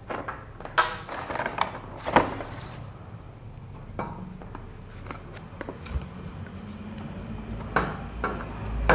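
Scattered light clinks and knocks of metal trolley parts and a small wrench being handled and set down, about half a dozen sharp ones spread through, with a brief rustle.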